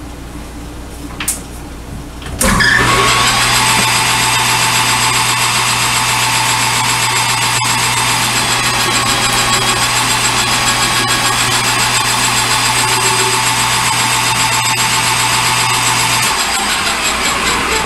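Metalworking machine-tool motor switched on about two and a half seconds in, running at a steady pitch, then switched off and running down near the end.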